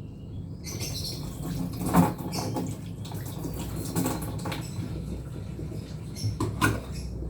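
Kitchen work sounds: a few knocks and clinks of utensils and dishes over a steady hiss that starts about half a second in.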